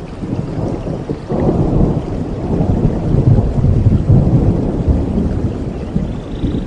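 Thunder rumbling through steady rain in a rainforest storm: a deep roll that swells a little over a second in, is loudest around the middle and then eases off.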